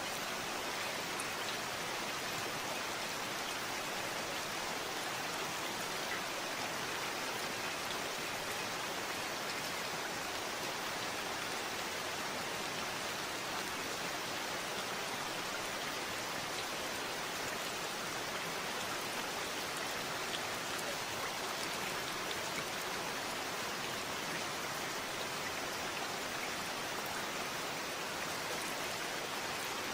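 Steady, even rain falling, with no change or pause.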